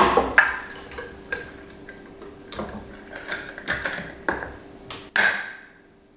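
Dishes and utensils being handled in a kitchen: a string of light clinks and knocks, with one louder clatter about five seconds in that rings briefly. A faint steady hum runs underneath.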